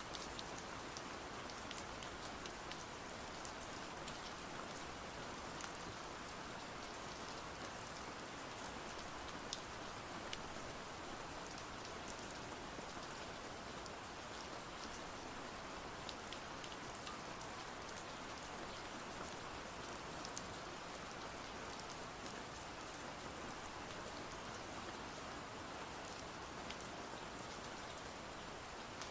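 Steady rain, an even hiss scattered with many small ticks of drops.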